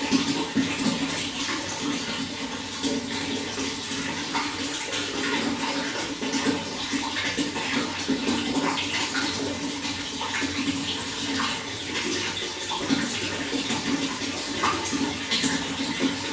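Running water flowing steadily, with many small splashes and gurgles throughout.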